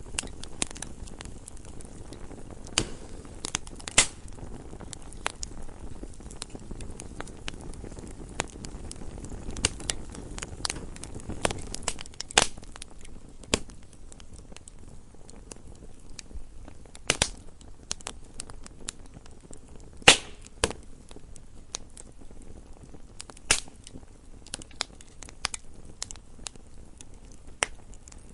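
Wood fire burning in a fireplace: a low steady hiss with irregular sharp crackles and pops from the burning logs, a few of them much louder snaps.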